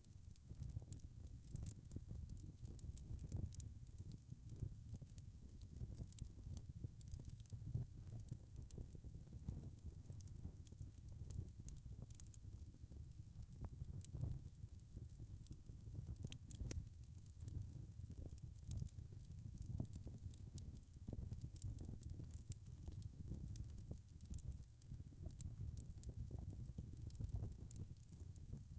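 Wood fire crackling steadily, with a low rumble of burning and a scatter of small, sharp pops and snaps.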